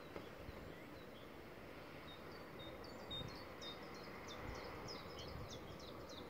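A small bird twittering faintly: a few high chirps, then from about two seconds in a quick run of short notes sliding downward, over steady outdoor background noise.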